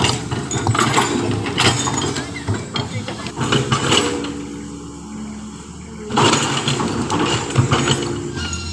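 Vehicle engine running with repeated mechanical clanks and rattles, dropping off for a moment midway.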